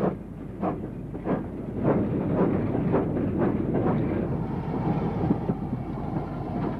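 Steam locomotive working: sharp exhaust chuffs about one and a half to two a second, quickening and merging into the steady rumble of the train running on the rails.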